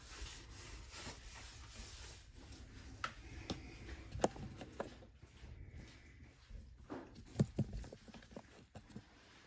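Scattered light clicks and knocks of hands handling things and wiping up, over a faint steady low hum.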